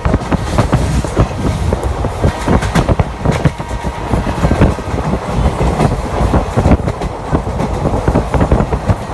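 Indian Railways passenger train running along the track, heard from on board a coach: a steady, loud rumble from the wheels and running gear, with many irregular knocks and clatters as the wheels pass over the rail joints.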